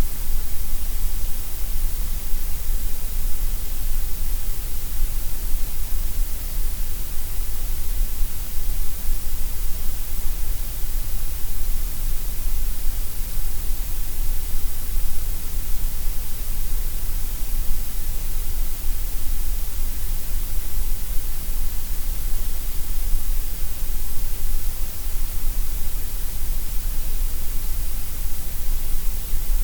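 Continuous synthetic gray noise: an even, unchanging hiss, heaviest in the deep lows and the highs and weaker through the middle range.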